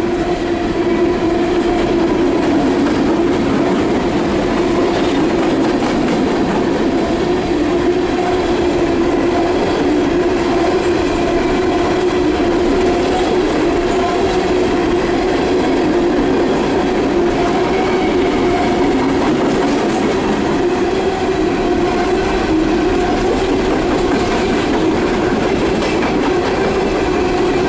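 Empty coal cars of a CSX freight train rolling past close by: steel wheels on rail make a steady, loud rumble. A constant humming tone runs through it.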